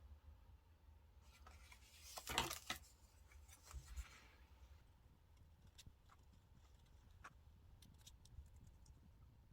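Paper and stickers being handled on a desk: one louder rustle a couple of seconds in, a smaller one about four seconds in, then faint scattered taps and clicks.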